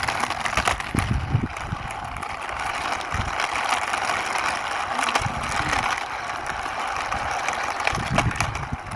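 Small toy racing car pushed by hand along a wall, its plastic wheels rolling and rattling over the rough surface in a steady ticking clatter, with a few low knocks.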